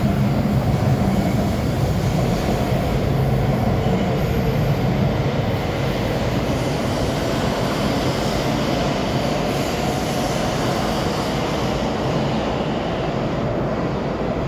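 Shinkansen train running past on the rails, a steady rumble of wheels and running gear that eases off slightly after about five seconds.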